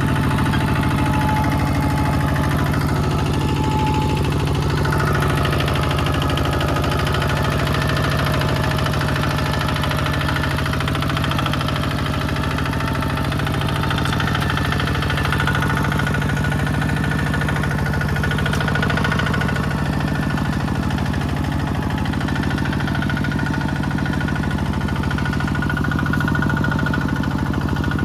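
Small farm tractor's engine running steadily at an even speed.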